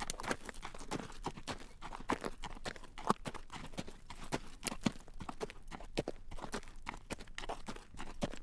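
Horse's shod hooves clip-clopping on a paved road at a walk while drawing a carriage, a steady run of sharp clacks several times a second.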